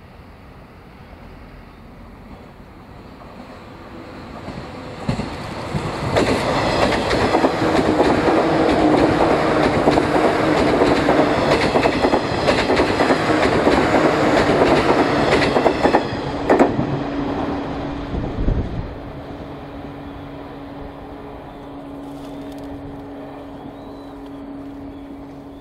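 JR East 185 series electric train passing at speed, its wheels clicking rhythmically over the rail joints. The sound builds for several seconds, is loudest for about ten seconds, then fades. A quieter steady hum with a held tone follows.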